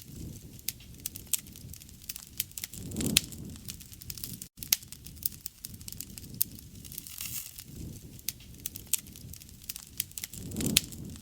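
Wood campfire burning: frequent sharp crackles and pops over a low rumble of flame, swelling louder twice, about three seconds in and near the end. The sound cuts out for an instant about four and a half seconds in.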